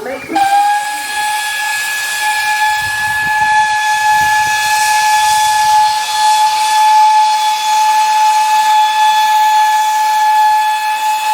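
Steam whistle of Great Western Railway Large Prairie tank locomotive No 4144 sounding one long, steady, unbroken blast over a hiss of steam. It cuts in just after the last words of a spoken countdown.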